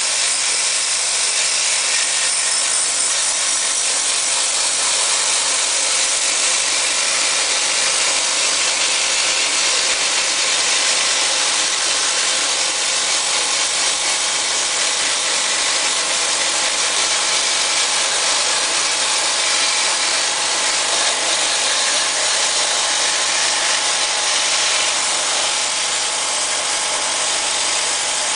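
Steady hiss of a water spray washing the inside of a wall-mounted air conditioner, rinsing mould and dust out of it.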